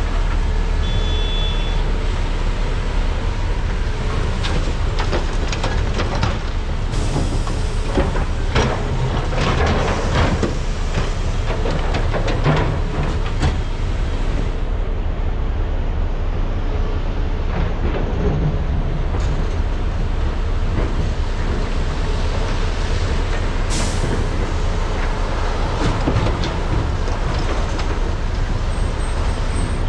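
Large hydraulic mining excavators' diesel engines running steadily under load, with repeated clanks, knocks and scraping of buckets and rock as material is dug and loaded, busiest in the middle of the stretch.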